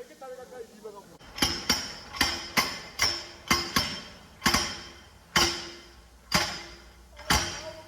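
Hammer blows on a tractor wheel as the punctured tyre is worked off the rim: about eleven sharp, ringing metal strikes, several in quick succession and then roughly one a second.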